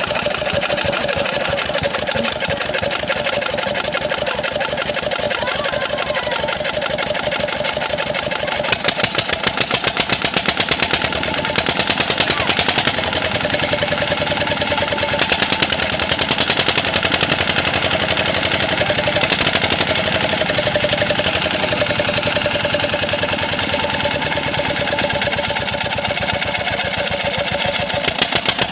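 Eicher Lister-type single-cylinder diesel engine for a water pump, running with a rapid, even knocking beat from its firing strokes; it gets louder and the beat heavier about nine seconds in.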